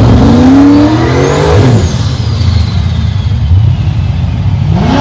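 A car engine accelerating hard, its revs climbing for about a second and a half and then dropping away, followed by a lower steady engine rumble. Near the end the revs start to climb again.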